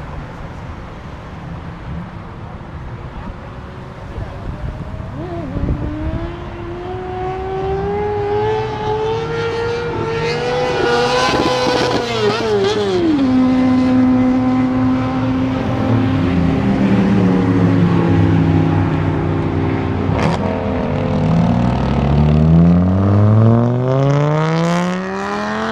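Car engines accelerating away. The engine pitch climbs slowly, drops about halfway through, then rises sharply in a hard acceleration near the end.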